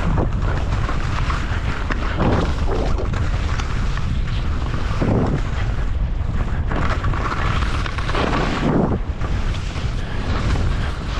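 Wind rushing over the microphone during a downhill ski run, with a louder swish of skis through snow every two to three seconds as the skier turns.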